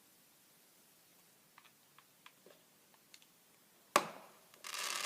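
A firework going off: one sharp bang about four seconds in with a short fading tail, then a brief crackling hiss near the end. A few faint clicks come before it.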